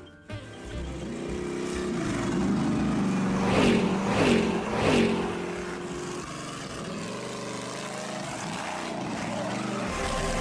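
Cartoon monster truck engine sound effects: engines running, with three quick revs, each sweeping down in pitch, a little past a third of the way in.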